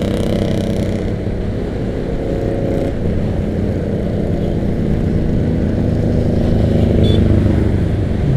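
Motorcycle engine running while riding, a low steady drone whose pitch shifts about a second and about three seconds in and swells a little near the end.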